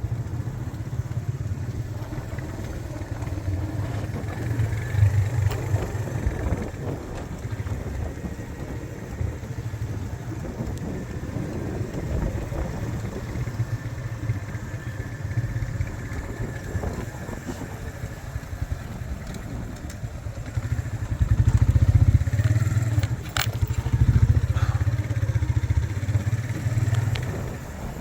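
Low, uneven rumble of a vehicle on the move, swelling louder at times, with a single sharp click late on.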